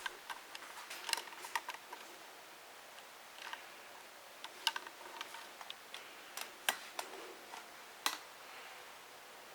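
Scattered light clicks and taps at irregular intervals, the sharpest about seven and eight seconds in.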